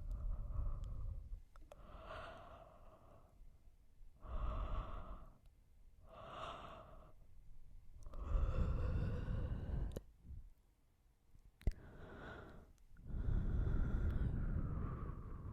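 Close-miked yawning: a person yawns and sighs several times in a row, each a breathy, drawn-out exhalation, the longest lasting about two seconds. A single short click comes about two thirds of the way through.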